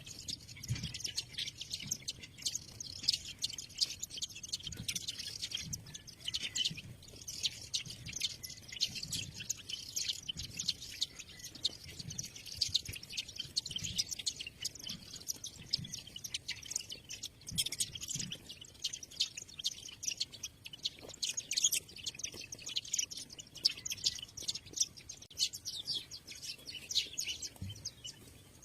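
Many small birds chirping at once, a dense, unbroken chatter of short overlapping calls, with soft low thumps now and then.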